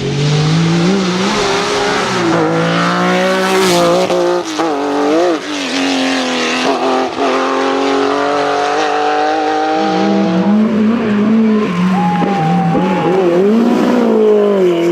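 Historic rally car engine revving hard, its pitch climbing and dropping several times as the car accelerates, lifts and changes gear.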